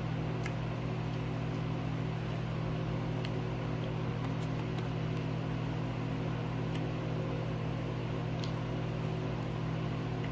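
A steady low mechanical hum, like a fan or appliance running, with a few faint, brief clicks.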